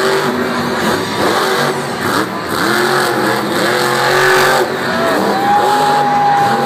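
Monster truck engines revving, their pitch rising and falling again and again, with a long steady high tone held near the end.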